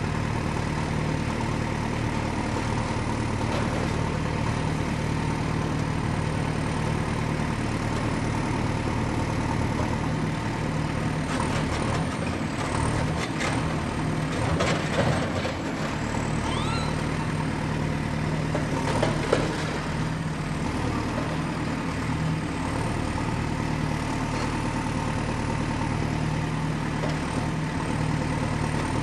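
Excavator's diesel engine running steadily at work, with a run of sharp clanks and a couple of short rising squeaks about halfway through.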